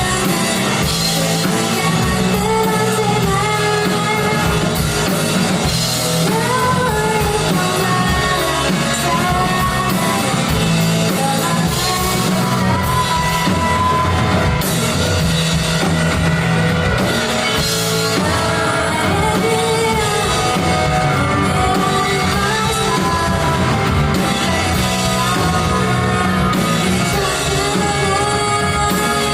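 A live rock band performing a song: a singer's voice over drum kit and guitar, played loud and steady throughout.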